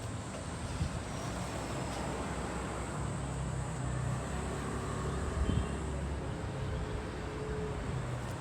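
Heavy diesel engine of a dump truck running steadily, with a low rumble that strengthens for a few seconds midway, and a single knock about halfway through.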